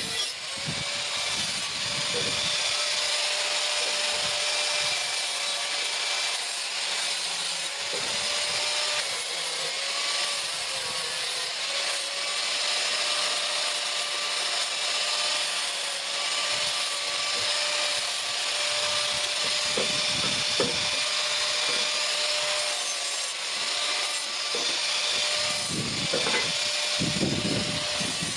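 A power tool running continuously under load, with a steady whine that wavers slightly in pitch over a grinding hiss; a few dull low knocks come near the end.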